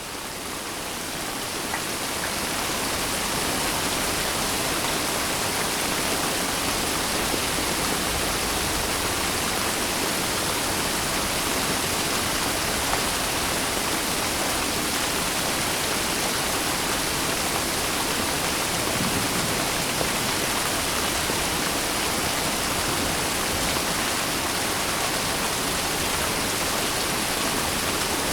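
Steady heavy rain, a dense, even hiss with no separate drops standing out, fading in over the first few seconds and then holding level.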